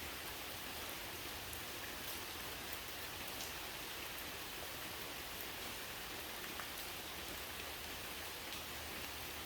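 Steady rain falling, a continuous even hiss with scattered single drops ticking through it.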